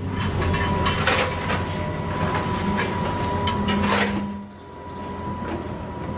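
Heavy machinery running with a steady low hum, with frequent metallic clanks and knocks over it that ease off about four seconds in.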